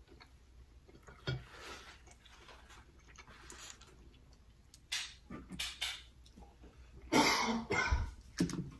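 A person chewing a mouthful of pizza, with a few scattered clicks and rustles from things handled on the table, the loudest near the end.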